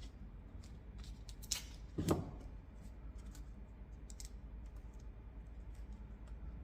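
Quiet handling of masking tape and plastic number plates: scattered light clicks and crinkles, with one louder short rustle about two seconds in.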